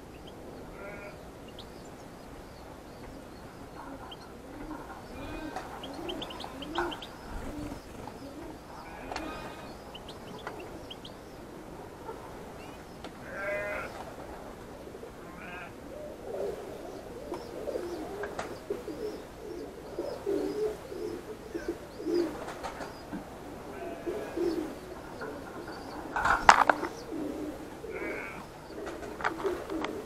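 Birds calling: scattered short high chirps from aviary finches (European goldfinches) over repeated lower calls. One sharp knock near the end is the loudest sound.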